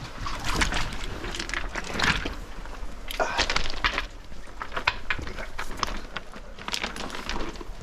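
Irregular scraping and rustling of clothing and gear against ice as someone crawls through a low ice-cave passage.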